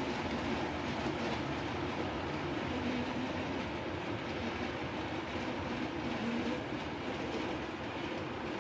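Model trains running on the layout's track: a steady whirr of small electric motors and wheels rolling over the rails.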